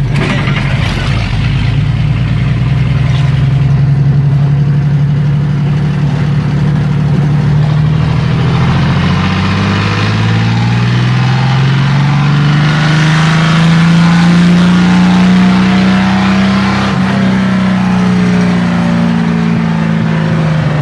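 Chevrolet 400 engine with an open, unsilenced exhaust pulling under way. Its note holds fairly steady, then drops and climbs steadily from about nine seconds in, and eases back down near the end.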